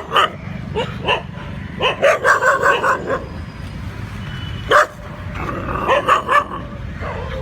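Stray dogs barking in short bursts, with a quick run of barks about two seconds in and single barks later, over steady background noise.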